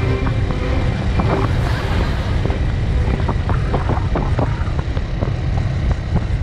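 Suzuki ST250e's air-cooled single-cylinder engine running steadily as the motorcycle rides along, heard from a camera mounted on the bike.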